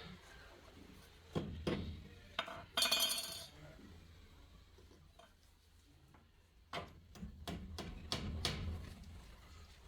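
A series of clinks and knocks of hard objects being handled: a cluster of strikes, one with a brief ringing, about three seconds in, then a quicker run of about six knocks near the end.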